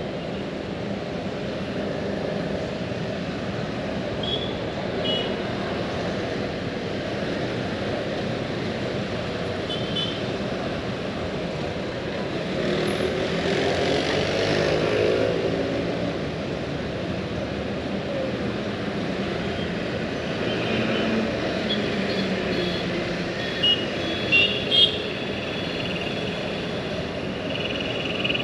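Steady outdoor rumble, with a motor vehicle passing about halfway through; its pitch shifts as it goes by. A few short, high chirps come at intervals, several of them near the end.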